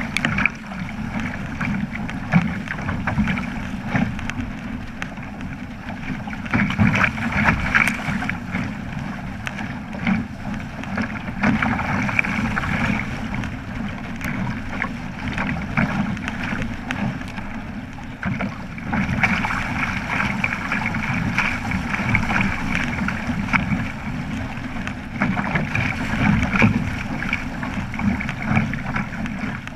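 Water rushing and splashing around a Flying Fifteen keelboat under sail, with wind buffeting the microphone in uneven gusts.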